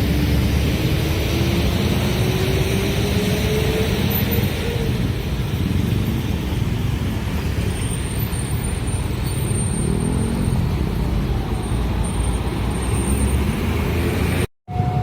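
Train passing a level crossing: a loud, steady rumble with a tone that rises in pitch over the first four seconds. The sound cuts off abruptly just before the end.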